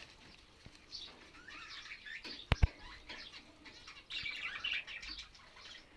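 Small aviary birds fluttering their wings and chirping in short scattered calls, with one sharp knock about halfway through.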